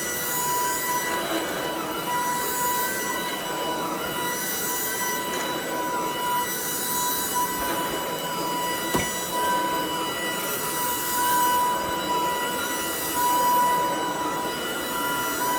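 Shark DuoClean cordless vacuum running, a steady high motor whine over rushing suction noise that swells and eases every couple of seconds. One sharp click comes about nine seconds in.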